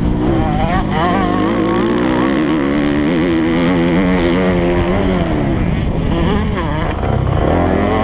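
MX2 motocross bike engine running hard under the rider, its pitch rising and falling as the throttle is worked, dipping briefly near the end and picking up again, over low rumbling wind noise on the onboard camera.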